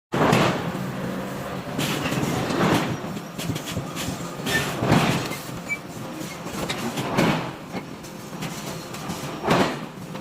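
Heavy forging machinery working hot iron: a loud noisy swell about every two and a half seconds, with scattered clicks and knocks between.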